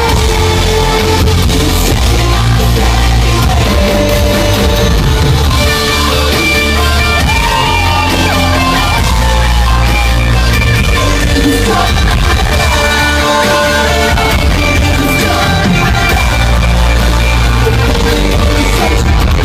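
Live rock band playing with singing over heavy, booming bass, heard through a large hall's PA.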